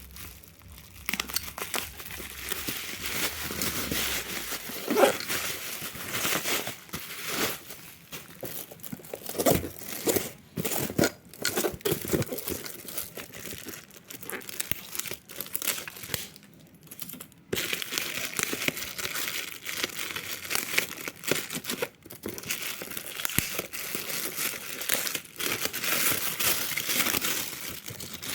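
Packaging being crinkled and torn open by hand during an unboxing: irregular crackling and rustling with sharp ticks, pausing briefly about a second in and again about two thirds of the way through.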